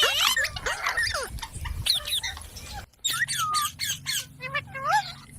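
Parrot squawking and chirping in quick runs of short calls that swoop up and down in pitch. The calls stop briefly about three seconds in, then start again.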